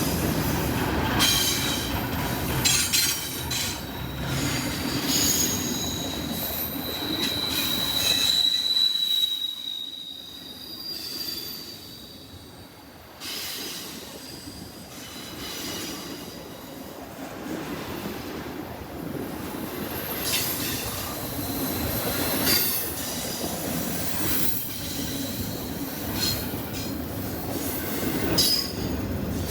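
CSX freight train cars rolling past, with wheels clicking over the rail joints and steel wheel flanges squealing in a high tone, most strongly about a quarter of the way in. The sound drops off for a few seconds in the middle, then builds again as more cars roll by.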